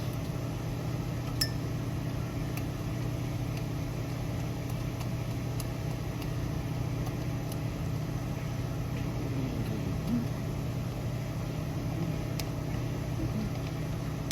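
Steady low background hum with a few light clicks and taps of hand tools working on a small engine.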